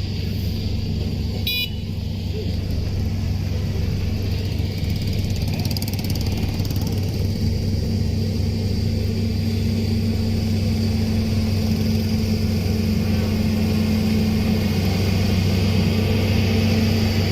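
A motor running steadily with a low hum, growing slightly louder, and a short high beep about one and a half seconds in.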